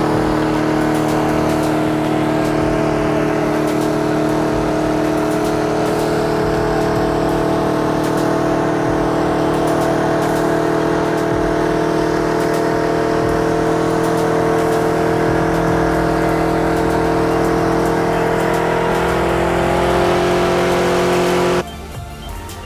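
Truck engine held at high, steady revs, its pitch creeping up slightly near the end, then cut off abruptly just before the end.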